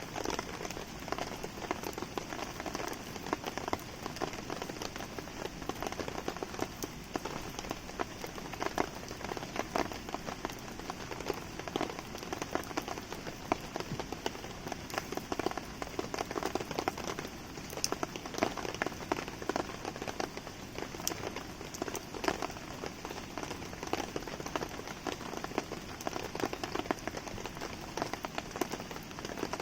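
Steady rain falling and pattering on surfaces, dotted with many short sharp drips and pops, mixed with a crackling campfire.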